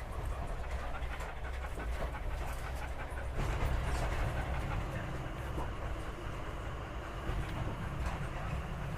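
Steady low rumble of a moving train, which gets louder and fuller about three and a half seconds in.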